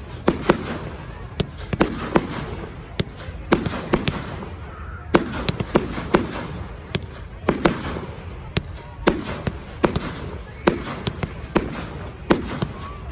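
Aerial fireworks going off in a display: an irregular barrage of sharp bangs and pops, about two a second, each with a short echo.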